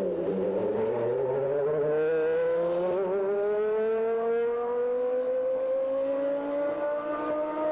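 1993 Williams FW15C Formula One car's 3.5-litre Renault RS5 V10 at high revs. Just after a gear change at the start, its note climbs slowly and steadily as the car pulls through a long gear.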